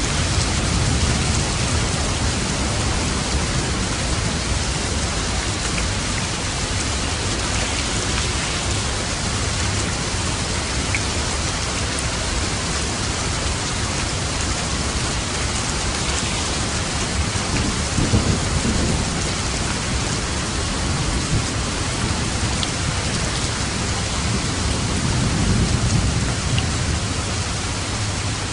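Steady heavy rain falling, with low thunder rumbling now and then, loudest about eighteen seconds in and again near the end.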